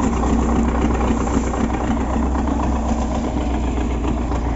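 MTZ (Belarus) tractor's diesel engine running steadily at idle while a hay roll is placed in the feeder.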